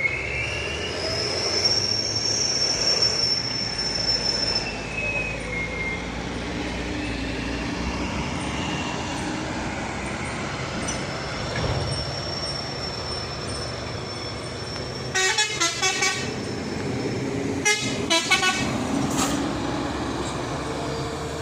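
Heavy trucks running on a climb, with a high-pitched squeal in the first few seconds. A truck horn sounds two quick series of short blasts, about three-quarters of the way through.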